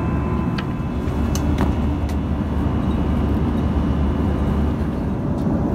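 Steady low rumble of cabin noise inside an Airbus A340-300 airliner, with a few faint clicks in the first two seconds.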